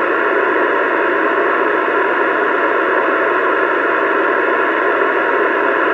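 CB radio speaker hissing with steady static that switches on suddenly and holds at an even level, in the narrow, thin band of radio audio.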